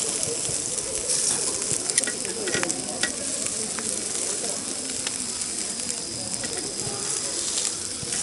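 Meat sizzling on a shichirin charcoal grill: a steady hiss with scattered pops and crackles.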